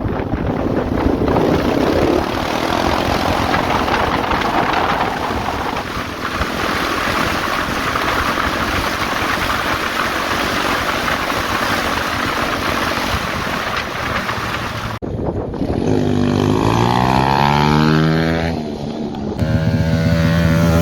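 Wind rushing over the microphone with an engine faintly running underneath. About fifteen seconds in, after a sudden cut, a pit bike engine revs up and down several times.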